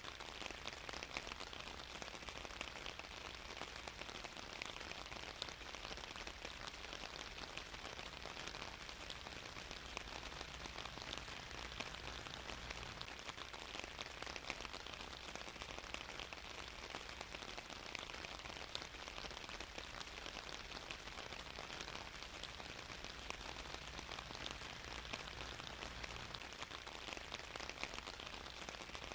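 Steady rain falling and pattering on a surface, an even hiss dense with fine drop ticks.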